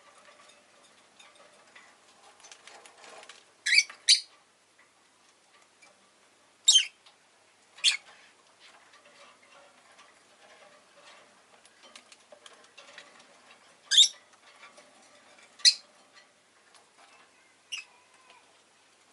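Rosy-faced lovebird giving short, sharp chirps, seven in all, some in quick pairs, over faint ticking.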